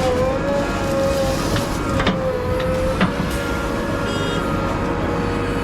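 Backhoe loader's diesel engine running steadily under work, with a steady, slightly wavering whine over it and a couple of sharp knocks about two and three seconds in.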